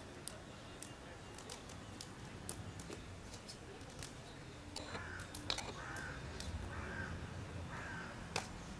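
A bird calling four times, about a second apart, in the second half, over scattered faint clicks.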